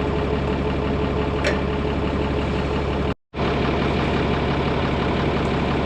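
Tractor diesel engine idling steadily, dropping out briefly to silence about three seconds in.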